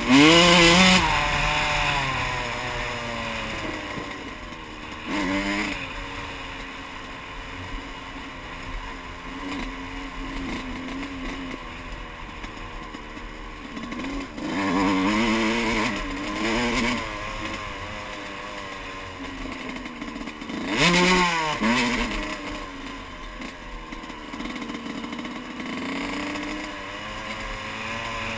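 Yamaha YZ125 dirt bike's two-stroke single-cylinder engine under riding, with several throttle bursts where the pitch rises sharply (at the start, around five seconds in, twice around fifteen to seventeen seconds, and around twenty-one seconds) and lower, steadier running in between.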